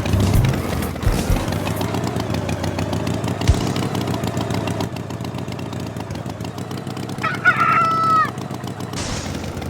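A rooster crows once, about a second long, near the end, over a steady low background sound.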